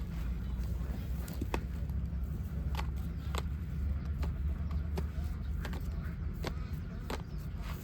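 A steady low rumble with irregular sharp clicks and taps scattered through it.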